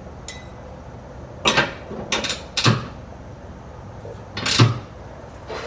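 A few separate knocks and clanks of tools and metal parts being handled over a low steady shop hum, the loudest near the end.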